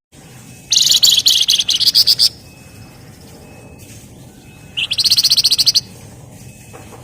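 Flamboyan (wergan Jawa) songbird singing its dense rattling 'ngebren' trill: two loud bursts of very fast repeated high notes, the first about a second and a half long, the second about a second, a few seconds apart.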